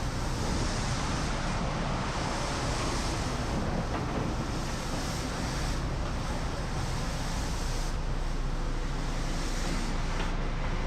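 Heavy construction machine's diesel engine running steadily, under a rushing hiss of wind on the microphone.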